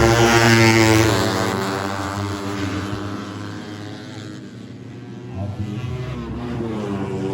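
Four-stroke 150cc underbone race motorcycles passing at racing speed: loud in the first second, then fading away, with engines coming up again about five and a half seconds in.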